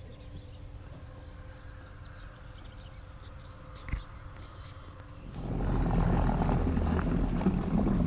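Birds chirping faintly over a low steady hum, with a single click about four seconds in. About five seconds in, a much louder boat motor starts running and takes over.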